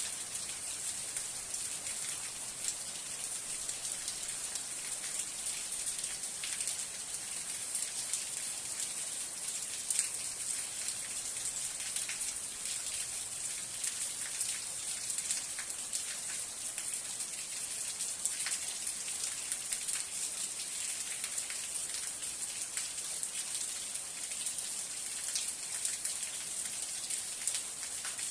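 Steady rain falling: an even, constant hiss dotted with many separate drop ticks.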